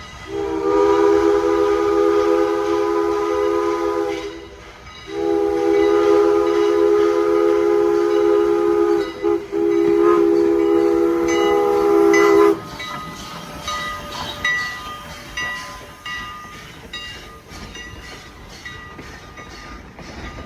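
Train horn sounding a chord of several notes in two long blasts, the second briefly broken near its end. Then comes a quieter, rhythmic clatter of a passing train's wheels.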